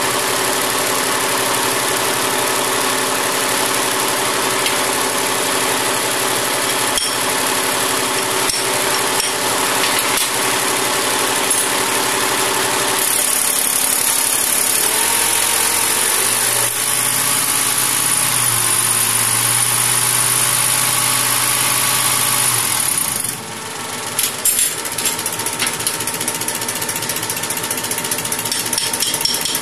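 Machinery running steadily with a fast mechanical clatter. About halfway a high hiss joins it; a little later the sound drops off and turns to uneven clicking.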